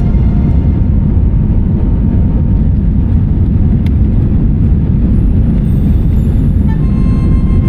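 Steady, loud low rumble of airliner cabin noise, the jet engines and airflow heard from inside the cabin. Faint background music tones come back near the end.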